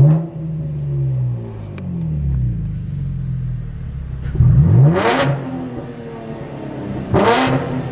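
Muffler-deleted V6 Camaro exhaust: revs fall away after a loud burst at the start, run steadily for a while, then climb sharply twice with a loud raspy note, about five and seven seconds in.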